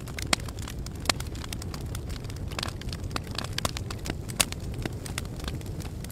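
Campfire crackling, with frequent sharp pops of burning wood, a few of them loud, over a low steady rumble.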